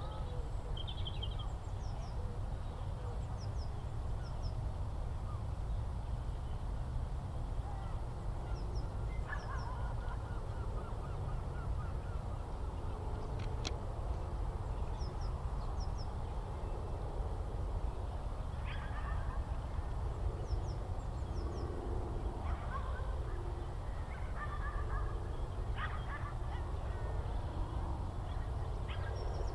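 Scattered bird calls over a steady low rumble. Short, several-toned calls come about a third of the way in and again repeatedly through the second half, with faint high chirps in between.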